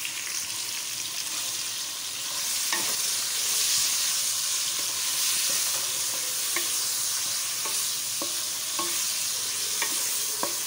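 Chicken pieces and sliced onions sizzling in hot oil in a metal kadhai while a wooden spatula stirs them, knocking and scraping against the pan in occasional clicks. The sizzle grows louder about two seconds in.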